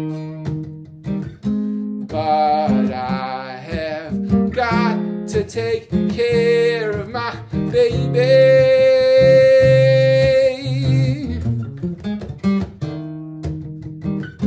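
Martin GPCPA4 acoustic guitar playing chords over a repeating loop, with a melodic line on top that bends in pitch and then holds one long note in the middle.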